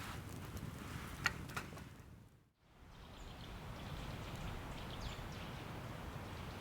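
Outdoor ambience with a few sharp clicks, one louder near the start, fading out to silence about two and a half seconds in. It returns as a steady outdoor hush with a few faint, high chirps.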